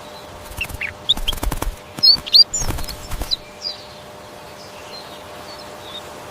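Birds giving a string of short, high chirps and calls, with some wing-flapping or clattering strokes among them, in the first half; after that only a steady low background remains.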